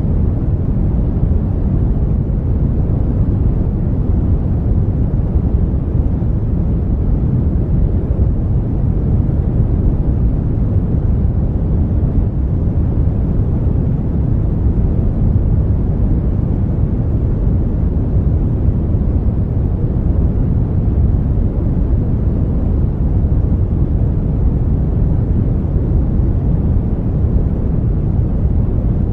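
Brown noise: a steady, deep, even rush of random noise, heaviest in the bass and fading toward the treble, unchanging throughout.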